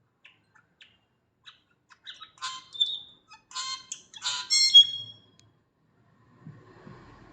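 A songbird singing: a few faint short notes, then a louder run of quick chirps and clear whistled notes that ends about five seconds in. Near the end a low rumble comes in.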